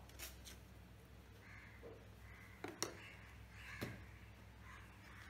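Faint bird calls repeating in the background several times, with a few sharp clicks, the loudest near the middle, over a steady low hum.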